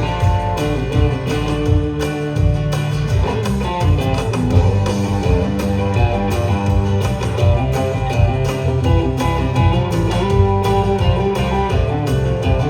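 Live band playing an instrumental break with no singing, led by guitars over bass and a steady beat.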